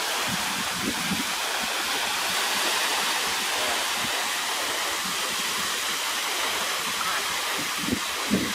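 Steady rushing hiss of surf washing on a sandy beach.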